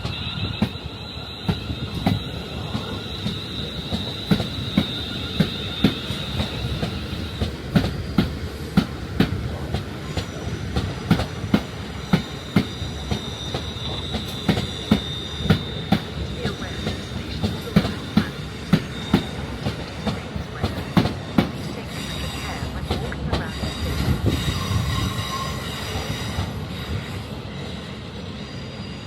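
Passenger train running slowly through the station, its wheels clicking over rail joints and points again and again. High wheel squeal comes and goes, strongest in the first few seconds and again later on.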